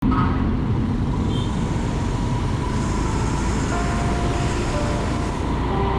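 Steady road traffic noise with no single vehicle standing out.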